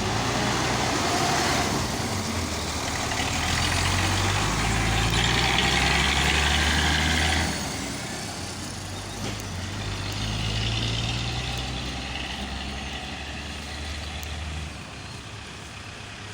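Heavy vehicle engine running, its pitch stepping up and down, with a broad hiss over it. It is loudest in the first half and then fades gradually.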